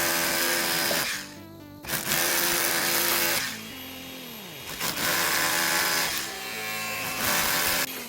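A power tool, likely an electric drill, runs in four short bursts over background music. After one burst the motor is heard winding down.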